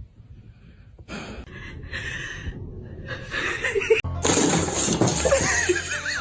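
People laughing, with music behind, starting about a second in and getting much louder about four seconds in.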